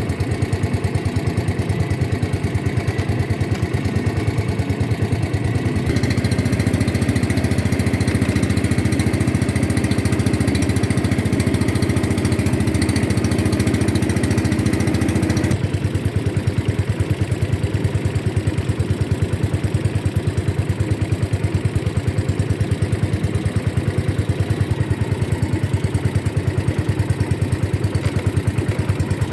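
Motorboat engine running steadily with a fast, even pulse; its tone shifts abruptly twice.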